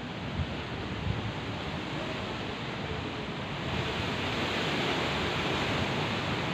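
Steady heavy rain falling, growing a little louder about halfway through.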